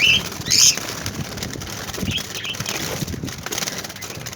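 Young budgerigars flapping their wings in panic as a gloved hand chases them, with a few short, sharp chirps and steady rustling throughout. There is a loud flurry about half a second in.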